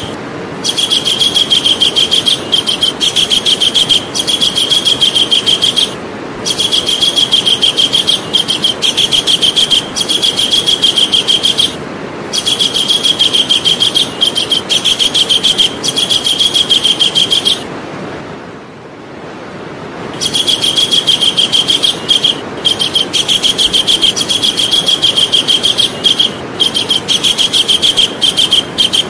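Javan kingfisher calling: long runs of rapid, sharp, high notes repeated evenly, each run lasting several seconds, broken by short pauses and by one longer pause of about two seconds a little past halfway. A steady background hiss lies under the calls.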